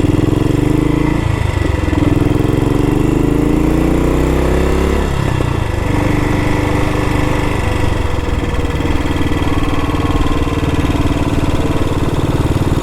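1962 Matchless G80CS scrambler's 500 cc single-cylinder four-stroke engine running under way. Its pitch rises as it pulls from about two seconds in, drops sharply about five seconds in, then runs steadier.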